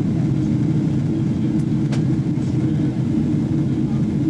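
Steady low cabin rumble inside a Boeing 777-300ER in flight, the noise of its engines and the airflow over the fuselage, with a faint click just before two seconds in.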